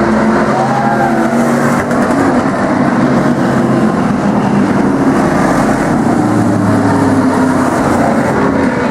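Several race car and truck engines running together on the track in a loud, continuous din, their pitches shifting up and down as they run.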